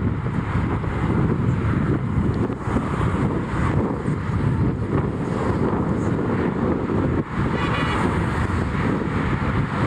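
Wind buffeting the microphone in a heavy, steady rumble. A faint, brief horn tone from the train comes through about seven and a half seconds in.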